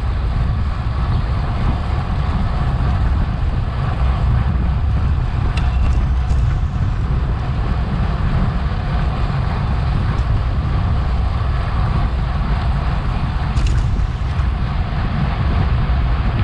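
Wind buffeting an action camera's microphone on a bicycle at racing speed: a steady deep rumble with a rushing hiss on top, broken by a few short clicks.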